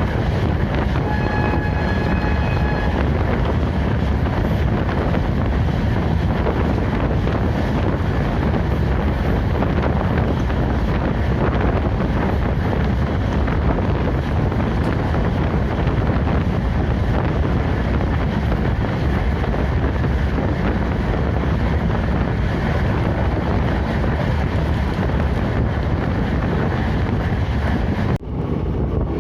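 Steady wind buffeting the microphone over a deep, constant rumble. A short high tone with overtones sounds for about two seconds near the start. Near the end the sound drops out abruptly and changes.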